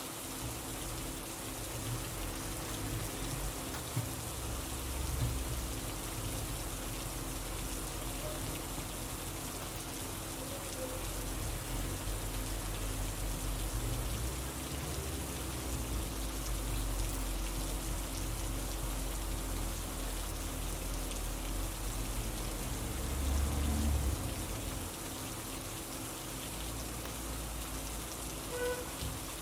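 Steady rain falling, a continuous even patter, with a low rumble that swells now and then, most strongly about three-quarters of the way through.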